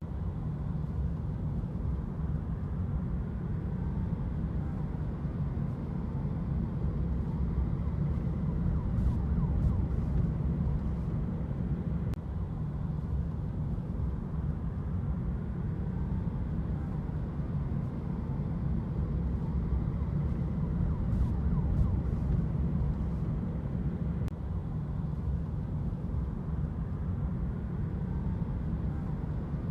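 Steady low rumble of vehicle traffic with a faint emergency siren wailing up and down at intervals.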